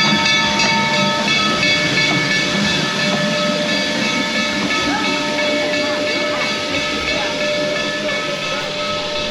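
Steam locomotive blowing off steam with a loud, steady hiss while its whistle sounds a long blast of several held notes.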